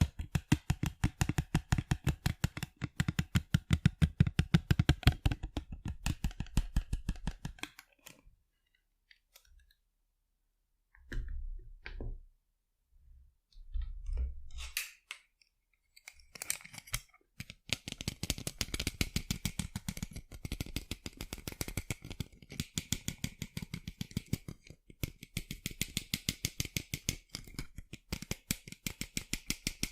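Fingers tapping rapidly on a pair of sunglasses, a fast stream of small clicks. The tapping stops about eight seconds in, with a few soft knocks as the glasses are handled, and picks up again about halfway through with a lighter, brighter click.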